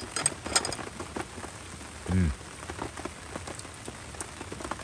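Steady rain pattering, with a few light clinks of chopsticks on a plate in the first second. About two seconds in comes a short murmured "mm" with a falling pitch.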